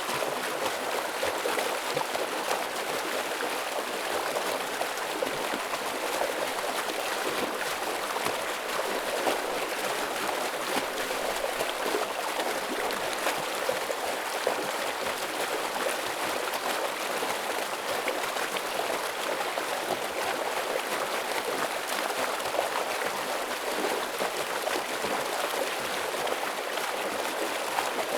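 Forest stream rushing over rocks in a steady, heavy flow of splashing and gurgling water.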